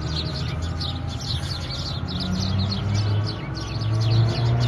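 A flock of small birds chirping busily, many short falling chirps overlapping, over a steady low hum.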